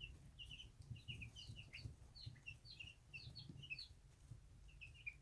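A brood of young meat-bird chicks peeping: many short, quick, high chirps, faint, over a low rumble.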